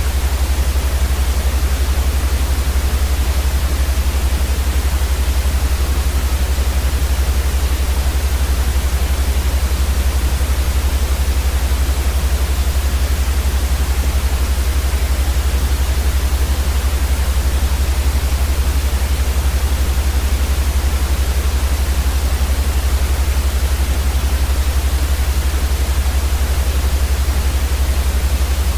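Steady, unchanging white noise for sleep: an even hiss with a strong deep rumble underneath.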